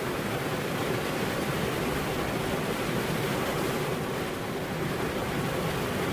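Steady rain, a dense even hiss with no thunder.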